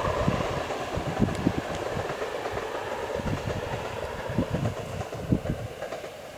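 Passenger train rolling along the line below, its coaches' wheels giving a steady rumble with irregular low thumps on the rails, growing fainter near the end.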